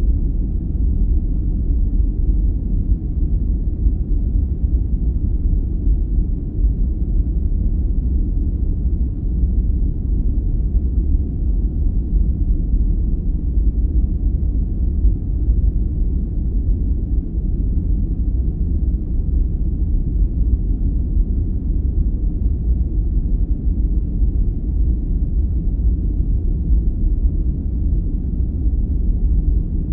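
Steady, deep sleep-aid noise, a muffled low rumble-like hiss with no treble and no changes.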